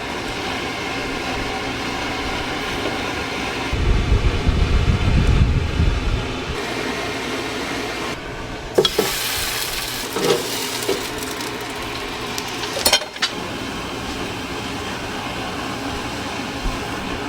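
Steady workshop machine noise, with a louder low rumble about four seconds in that stops after about two and a half seconds, then a few sharp knocks.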